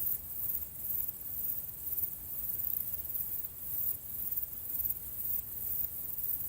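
Insects chirping in a high-pitched, pulsing chorus, about two to three pulses a second, over a faint low rumble.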